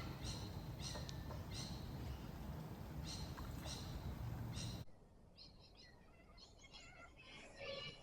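Birds calling with short, repeated high chirps, several a second, over a steady low rumble. About five seconds in, the rumble cuts out and a busier chatter of bird calls follows.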